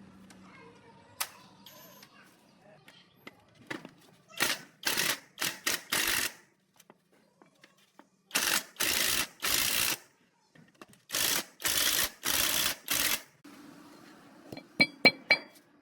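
Repeated rasping or scraping strokes in three bursts: about four, then three, then five strokes, each around half a second long. A few light metallic clinks come near the end.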